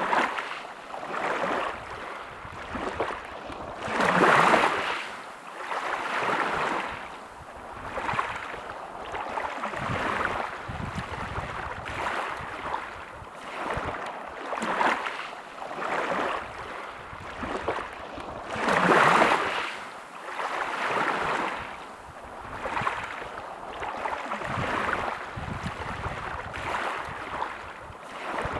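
Small sea waves washing in and out in a quick, regular rhythm, one swell every couple of seconds, with two larger waves breaking about four seconds in and again near nineteen seconds.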